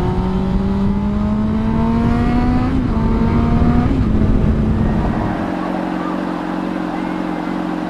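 Honda CBR600RR inline-four sport-bike engine under way, its note rising slowly as it pulls through a gear, with wind noise on the helmet microphone. About five seconds in, the wind noise drops away and the engine settles to a steady note.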